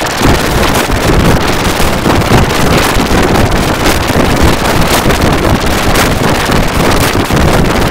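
Loud, steady rushing noise with no clear pitch, starting abruptly.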